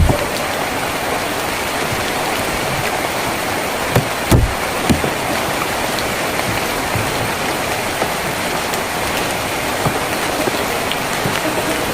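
Steady rain falling on a tin roof, an even hiss with occasional louder knocks of heavier drops, a few of them about four seconds in.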